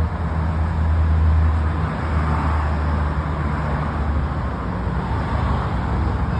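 Kawasaki Z900RS Cafe's inline-four engine idling steadily through an aftermarket LeoVince exhaust, with a deep, even exhaust note.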